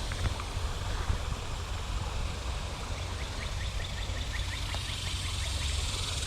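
Steady outdoor background noise with a low rumble, and about halfway through a quick series of short rising chirps, about five a second, lasting a few seconds.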